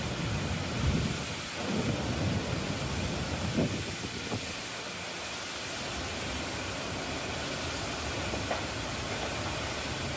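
Steady rushing noise of a storm's wind and rain, with a few faint brief low sounds in the first few seconds.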